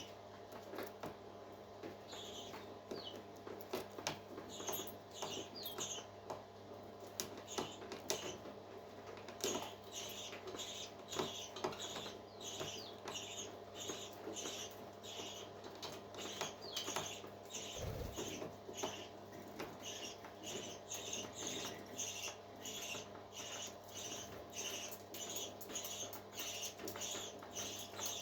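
Newly hatched parrot chick peeping over and over: short, high-pitched squeaks about two a second, over a steady low hum.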